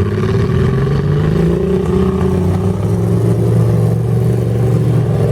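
Mud truck engine running hard under load, its pitch rising over the first second or two and then holding high.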